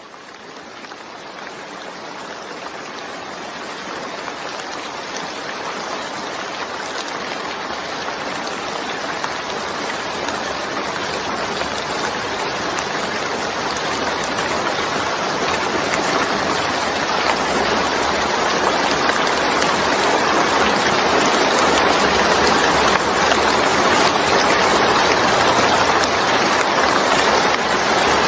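Steady rainfall, a dense even hiss of falling rain with faint scattered drop taps, fading in from silence and growing steadily louder.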